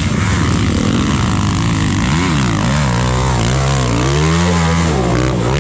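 Trail motorcycle engine revving up and down several times.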